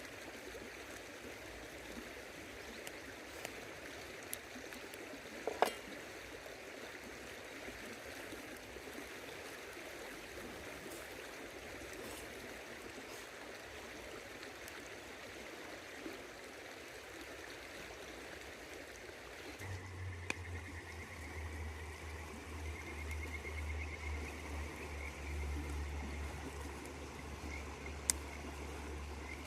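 River water running steadily, with a few sharp pops early on. About two-thirds in, a steady low hum and a high, rapidly pulsing trill come in over the water.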